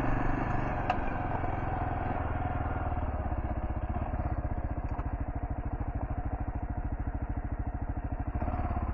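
Kawasaki KLR650's single-cylinder engine running at low revs, each firing pulse coming through separately, picking up slightly near the end.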